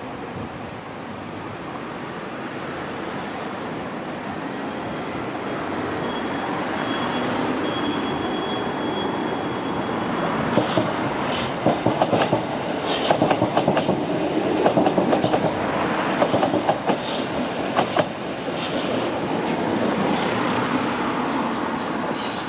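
A train running through the station, its rolling noise building over the first ten seconds, then the wheels clattering sharply over rail joints and points for several seconds from about halfway through.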